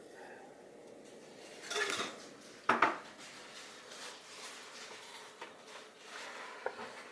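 A container being handled and set down, clattering: a rattling scrape about two seconds in, then a sharp clatter just before three seconds, with faint rustling after.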